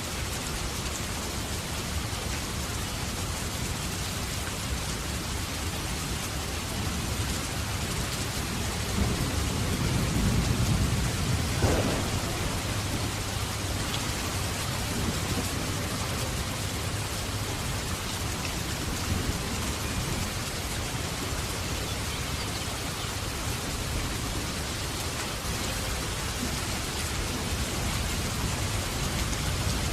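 Steady heavy rain falling, with a rumble of thunder building about nine seconds in and a sharp thunderclap near the middle before it fades back to rain.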